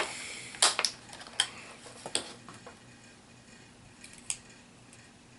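Scattered sharp clicks and light knocks of hard plastic HeroClix miniature figures being handled and set down, several in the first two seconds and one more about four seconds in.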